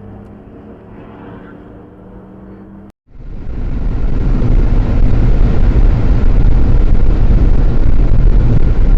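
Dashcam audio of a moving car: a steady engine and cabin hum with a few held tones, then after a cut about three seconds in, loud road and wind rumble that builds over a second and then holds steady.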